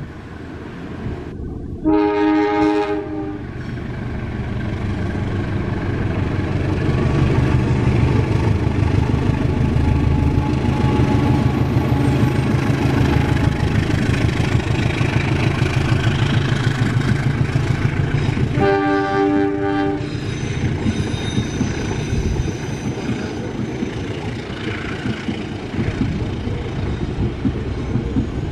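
Indonesian diesel train's horn sounds a blast of about a second and a half, then the train rumbles past on the rails, growing louder and then holding steady. A second horn blast comes about sixteen seconds later.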